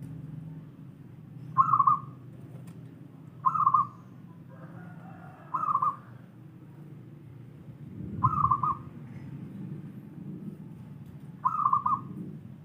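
Zebra dove (perkutut) cooing: five short, trilled coos spaced two to three seconds apart. A steady low rumble runs underneath.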